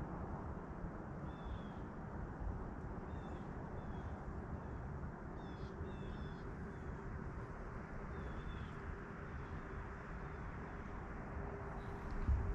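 Small birds chirping repeatedly, short thin high notes every half second or so, over a steady low rumble of wind and water.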